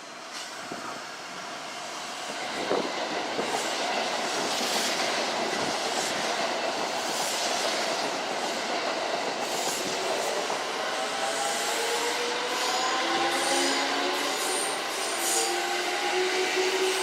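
Kintetsu electric train running at the station, its rumble and wheel noise growing louder over the first few seconds. From about ten seconds in, a whine from its traction motors rises steadily in pitch as the train picks up speed.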